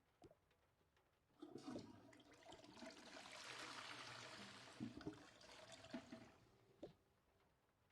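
A rush of running water that starts about a second and a half in, swells and then fades away over about five seconds, with a few light knocks on top.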